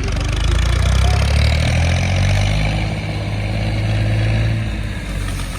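Old tractor engine running loudly, its speed picking up in the first second or two, holding steady, then easing off near the end.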